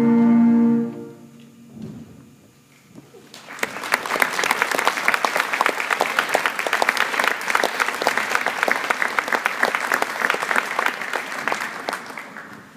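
A concert band's final held chord cuts off about a second in; after a short hush, audience applause starts about three seconds in and carries on steadily, fading near the end.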